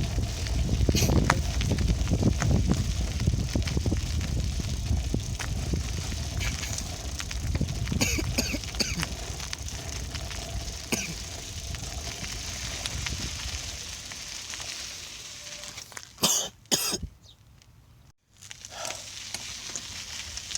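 Bicycle riding noise: a steady rumble and crackle of rolling over a rough surface, with scattered clicks and rattles. Near the end two sharp knocks are followed by a brief near-total dropout, then the rolling noise returns.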